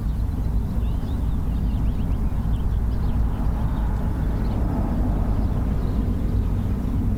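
Steady outdoor low rumble with faint bird chirps above it.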